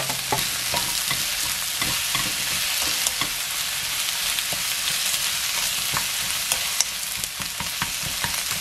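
Sliced onions frying in hot oil in a nonstick pan, stirred with a wooden spoon: a steady sizzling hiss with scattered short clicks and scrapes from the spoon.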